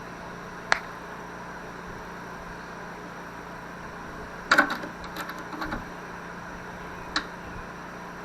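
Clicks and clinks of a line fitting and hand tools being handled while a flare nut is fitted to the valve: a single click about a second in, a quick cluster of clinks around the middle, and another click near the end, over a steady hum.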